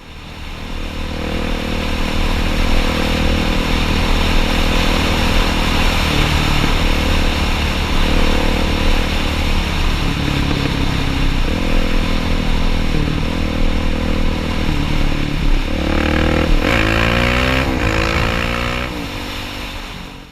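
Dirt bike engine running under throttle, with a steady rush of wind and road noise over the microphone. About sixteen seconds in, the revs climb and drop back several times in quick succession.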